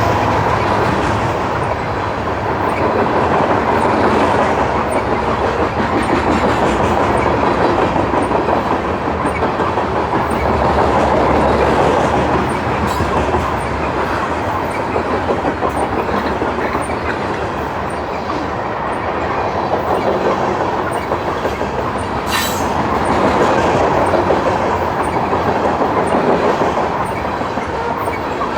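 Wisconsin & Southern grain train's freight cars rolling past at speed, a steady rumble that swells and fades, with the rhythmic clickety-clack of wheels over rail joints. A single sharp clank stands out about three-quarters of the way through.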